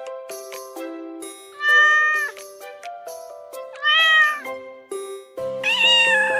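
A cat meowing three times, the last meow the longest and falling in pitch, over light background music.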